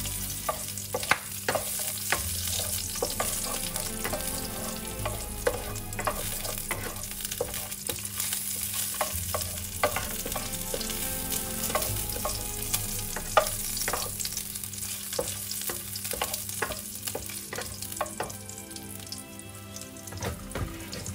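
Lemongrass, garlic and leaves sizzling in hot oil in a non-stick wok, stirred with a wooden spatula that scrapes and knocks against the pan. The stirring strokes stop a few seconds before the end while the sizzling goes on.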